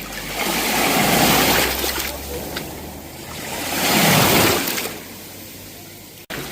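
Sea waves breaking and washing in on the shore, two waves about three seconds apart, each swelling and then fading. The sound cuts out for an instant near the end.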